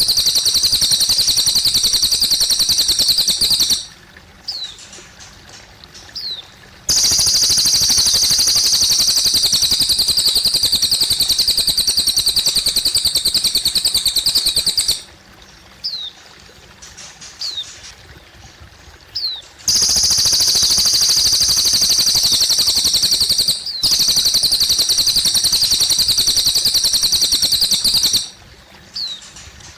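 A cililin songbird singing long, rapid, high-pitched trills of several seconds each, three bouts that start and stop abruptly. In the pauses between them, short falling chirps sound over trickling water.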